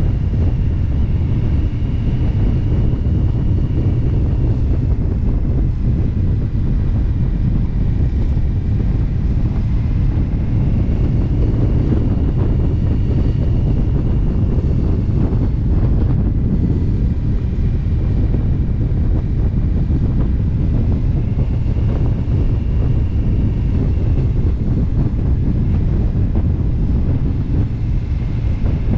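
Indian motorcycle cruising steadily at road speed, its engine rumble mixed with heavy wind noise on the microphone.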